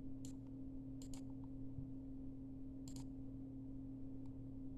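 Steady low electrical hum with a few faint, short clicks, one about a third of a second in, a pair about a second in and one about three seconds in.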